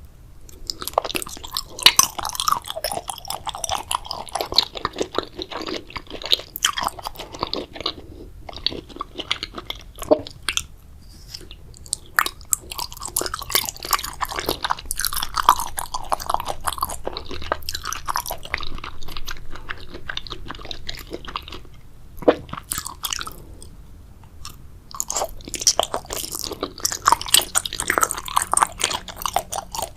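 Close-miked chewing and biting of a purple grape jelly dessert: wet, crunchy mouth sounds in bursts, with short pauses between bites.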